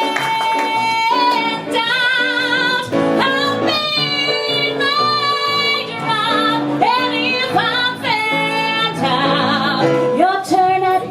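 A woman belting a Broadway show tune with strong vibrato over instrumental accompaniment. It opens on a long held high note, then moves into fast sung phrases.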